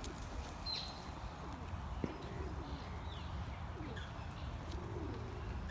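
Scattered short bird calls and chirps, several of them falling in pitch, over a steady low rumble, with a single sharp click about two seconds in.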